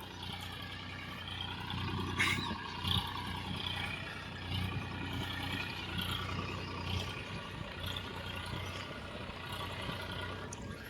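Massey Ferguson 7250 DI tractor's diesel engine running steadily while hauling a heavy load.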